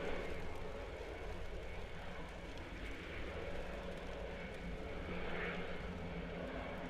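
Airbus A400M military transport aircraft running on the ground before takeoff: a steady drone with a high-pitched whine, heard from inside a car.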